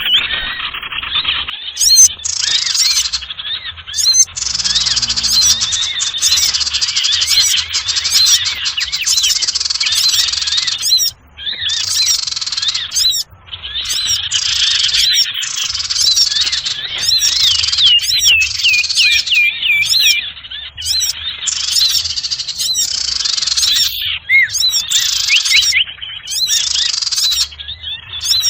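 Bird-lure recording of sirtu birds: a busy chorus of small birds chirping and twittering rapidly, with quick rising and falling calls and a few brief gaps.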